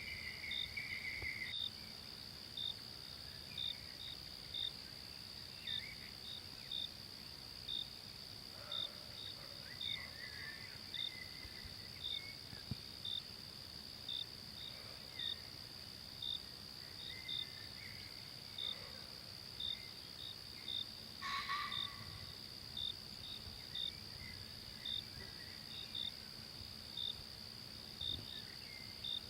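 Forest ambience: a steady insect drone with a cricket chirping a little more than once a second, and faint scattered bird calls. A brief louder sound cuts in about two-thirds of the way through.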